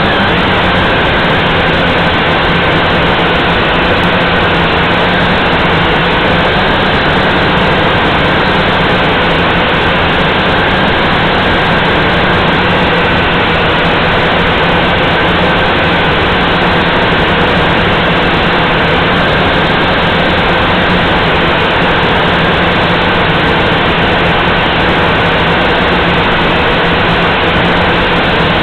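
Galaxy Visitor 3 toy quadcopter's motors and propellers running steadily: a loud, even whir with a steady whine, heard close up from its own onboard camera.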